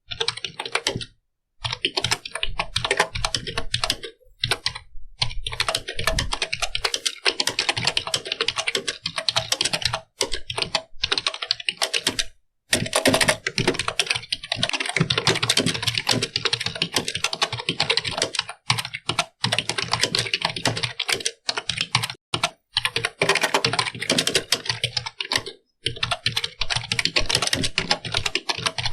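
Computer keyboard being typed on quickly, a fast run of crisp key clicks broken by a few short pauses of under a second.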